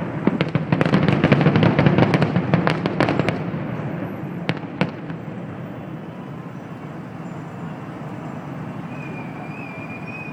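Fireworks going off: a dense, rapid run of bangs and crackles for about three and a half seconds, two more sharp bangs a second later, then the bursts stop and only steady background noise remains.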